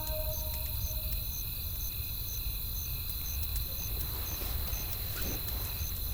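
Campfire ambience: a steady low rumble with sparse faint crackles, and a high insect-like chirp repeating about twice a second. A last sustained music note fades out about a second in.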